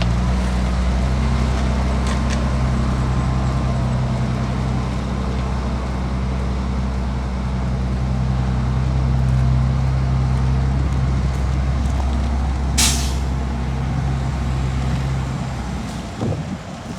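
Heavy diesel engine running steadily, with one short sharp hiss of an air brake about 13 seconds in. The engine sound drops away about a second before the end.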